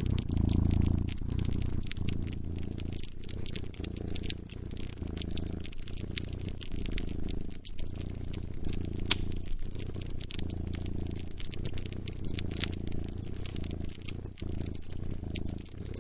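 A cat purring close up in a steady rumbling rhythm, mixed with the sharp pops and crackles of a burning wood fire; one pop about nine seconds in stands out above the rest.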